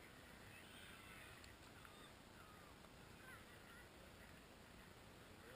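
Faint, scattered bird calls, short chirps rising and falling in pitch, over a steady low hiss.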